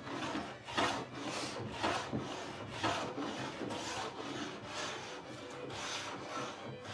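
Repeated rubbing strokes of a hand tool on wood, about one or two a second, picked up through the workbench by a microphone lying on it.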